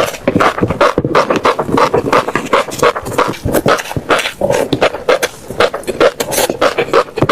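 Crunchy seeds being chewed right at the microphone: a fast, uneven run of crisp cracking crunches, several a second.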